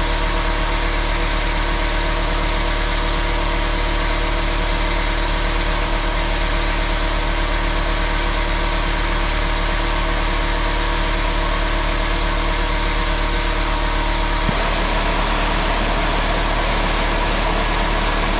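Air-powered angle grinder running without a break in an endurance run to overheat it, a steady mechanical drone. About fourteen and a half seconds in, part of its tone changes and some pitches drop out.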